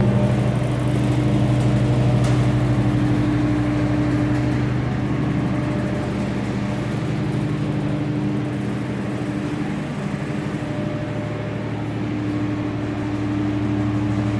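AM2C SM1830 bone separator (mechanical deboning machine) running, a steady motor hum with a low drone and a higher tone that dips for a moment and then returns.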